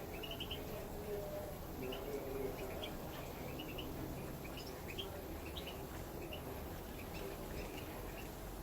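Small aviary finches twittering: many short, high chirps in quick, irregular succession over a steady low background noise.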